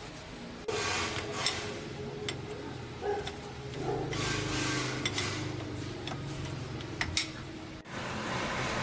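Metal tools and parts clinking and scraping during mechanical repair work, with several sharp metallic clinks over a steady background hum.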